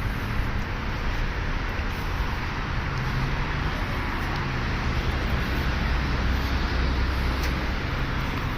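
Steady traffic noise with a low engine hum from a motor vehicle running.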